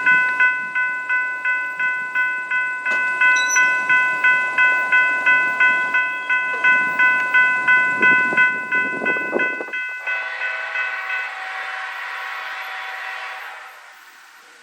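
A railroad crossing bell rings about two to three times a second over the rumble of a passing train. About ten seconds in the ringing stops and the train goes on with a sustained chord of tones, like its horn, which fades away near the end.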